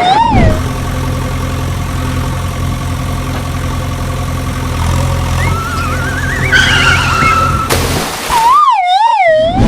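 A steady, low vehicle-engine hum, with a wailing siren rising and falling at the start and again near the end, and a short rising warble about two-thirds of the way through.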